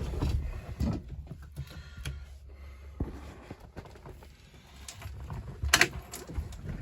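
Scattered light clicks and knocks from the controls and fittings of a 1966 Ford Thunderbird's cabin being handled, the engine not yet running, with a short cluster of louder clicks near the end.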